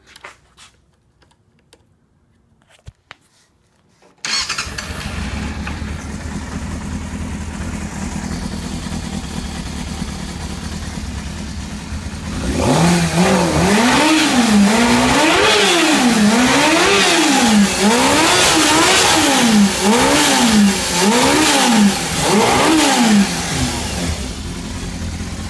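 A cold 2001 Yamaha YZF600R 600 cc inline-four motorcycle engine starts about four seconds in and idles steadily. It is then blipped up and down about eight times before settling back to idle near the end.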